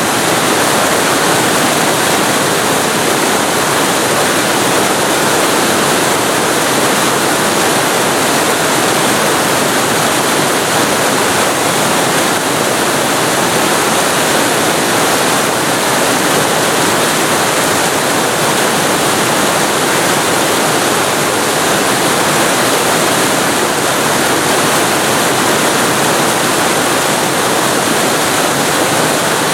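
Waterfall recorded very close to the falling water: a loud, steady rush of water with no let-up.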